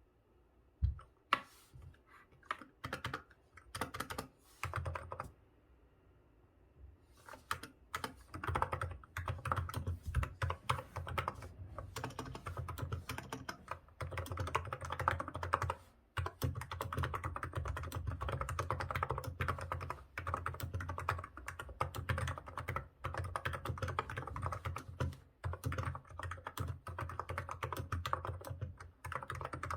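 Hansung GK868B electro-capacitive (contactless) keyboard with 35 g switches being typed on. A few separate keystrokes come first, then a short pause, then steady fast typing from about seven seconds in, with one brief break.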